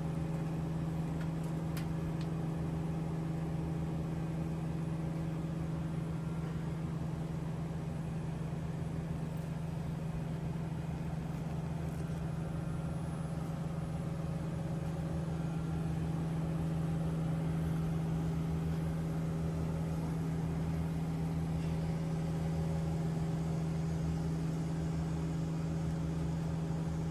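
Steady machinery drone with one strong low hum and fainter overtones, running at an even level without pauses.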